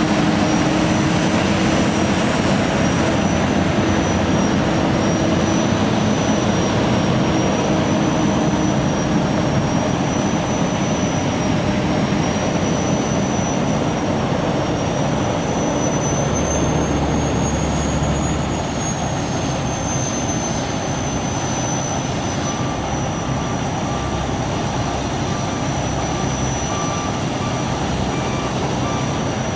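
Heavy truck running steadily, with a high, wavering whine over the engine noise. Near the end a backup alarm starts beeping at an even pace.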